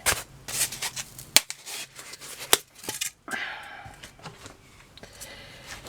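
Craft materials being handled and pressed into place: a string of small clicks and taps, then a longer rustle a little past the middle.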